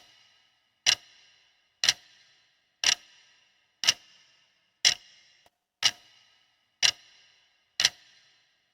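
Countdown timer sound effect: a clock ticking once a second, each tick short and sharp with a brief ring after it, counting down the time to answer a quiz question.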